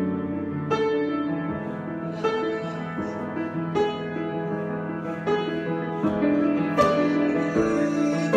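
Solo piano improvisation: chords and melody notes struck every second or so and left to ring.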